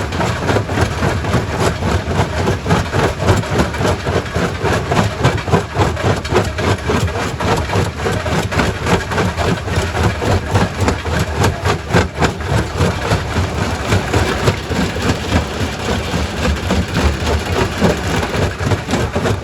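Quarry primary rock crusher running, a steady heavy machine drone under dense, irregular knocks and cracks of stone being broken.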